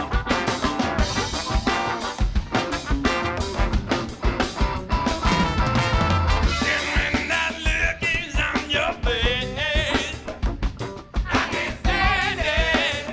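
Funk band playing live, a drum kit keeping a steady beat under bass and other instruments, with a wavering lead line coming in over the top about six seconds in.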